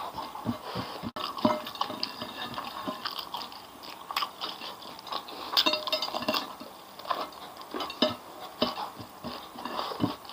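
Close-up mukbang eating sounds: chewing and crunching with a full mouth, mixed with irregular short clicks and knocks as fingers pick food off a ceramic plate.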